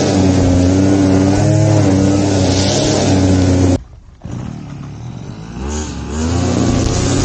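Small petrol engine of a brush cutter running at high speed. About four seconds in it drops away suddenly to a low idle, then revs back up to full speed near the end.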